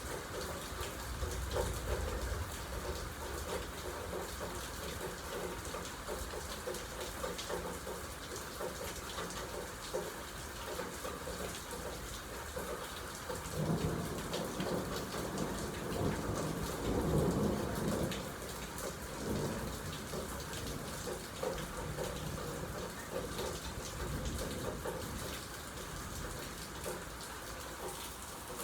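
Steady rain falling, with a rumble of thunder about halfway through that swells and fades over several seconds.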